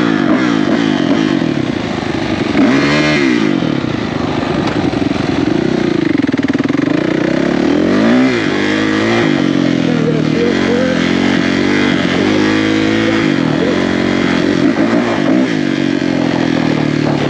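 Single-cylinder four-stroke dirt bike engine revving hard. Its pitch rises and drops over and over as the throttle is worked and gears change.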